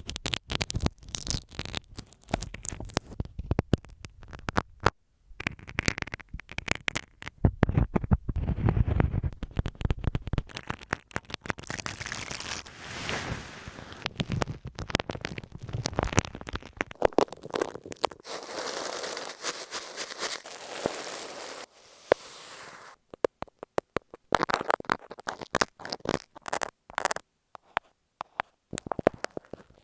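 Close-miked ASMR triggers on masking tape over an earphone microphone: quick tapping and crackling, with longer stretches of scratching and brushing hiss, changing every few seconds with short pauses between.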